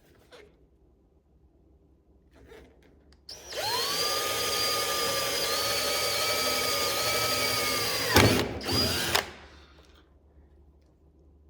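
Electric drill drilling a pilot hole. It spins up with a rising whine and runs steadily for about four and a half seconds. Near the end there is a sharp crack, the loudest moment, then one short second burst before it stops.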